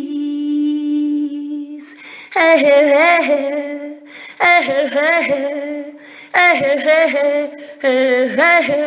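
A woman's voice singing an unaccompanied wordless chant: one long held note, then four wavering phrases that bend up and down in pitch, each starting about two seconds after the last, over a steady held low note.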